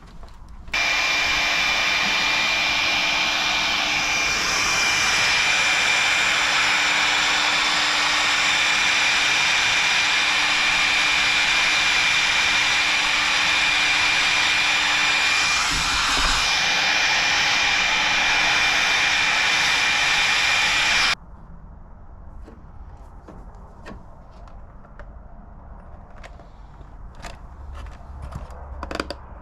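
A hand-held electric blower running steadily for about twenty seconds: a rushing of air with a constant high whine and a low hum, switched on suddenly and cut off suddenly. Light clicks and handling noises follow.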